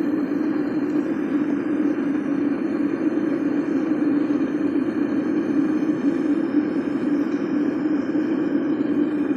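Homemade furnace burner running steadily: an even, unbroken rush of flame, deepest in a low band, with aluminum starting to melt in the crucible.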